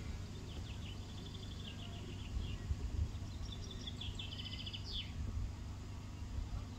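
Small birds singing in short, rapid trilled phrases, several times, over a steady low wind rumble on the microphone.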